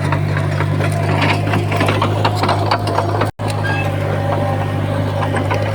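Heavy diesel earthmoving machinery running steadily, a deep engine drone with irregular metallic clanking and rattling over it. The sound cuts out for an instant just past the middle, then resumes unchanged.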